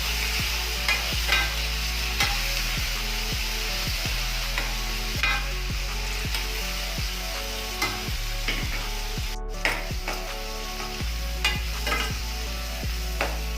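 Food sizzling as it fries in a pan, with a spoon or spatula stirring and clinking against the pan about once a second, at irregular intervals.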